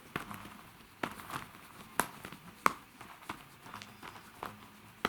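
Irregular light taps and clicks, about a dozen in a few seconds, the loudest two about two and two and a half seconds in.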